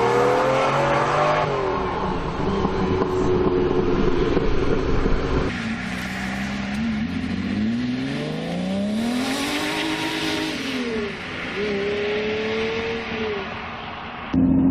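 High-performance car engine running and being revved: the pitch climbs to a peak around nine to ten seconds in and falls away, then rises briefly again. The sound changes abruptly about five and a half seconds in and again near the end, as between separate recordings.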